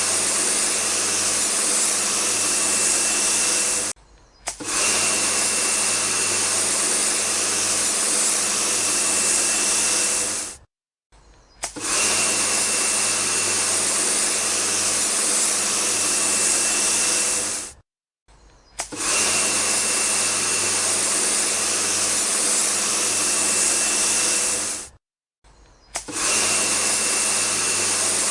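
A small electric motor running steadily with a loud hiss, in stretches of several seconds cut off by four short silences.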